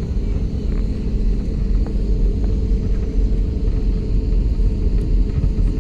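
Steady low rumble of a jet airliner during taxi or takeoff.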